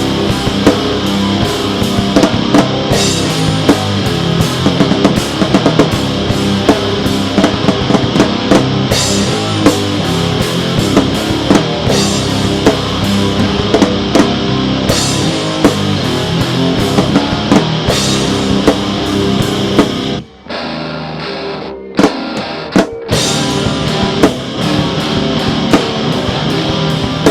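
Rock music with drum kit and electric guitar, with a steady beat that drops out briefly about twenty seconds in, broken by a few hits, before the full band returns.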